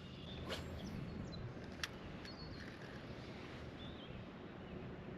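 Quiet open-air background with a few faint bird chirps and a single sharp click about two seconds in.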